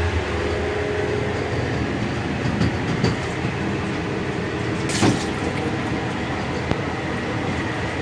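Steady running noise of the Gatimaan Express passenger train at high speed, heard from inside the coach: wheels on the rails and a low hum, with one sharp knock about five seconds in.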